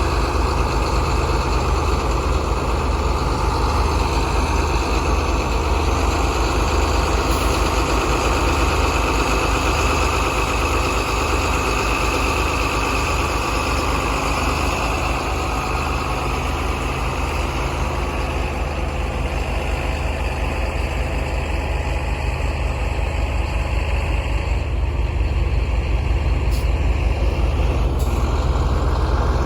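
Grain truck engine running steadily with an even low firing pulse, with the truck stuck in a muddy field.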